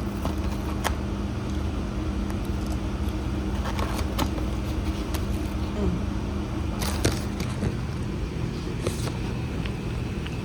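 A steady low hum, like an engine or motor running, with scattered light clicks and taps over it, a cluster of them about seven seconds in.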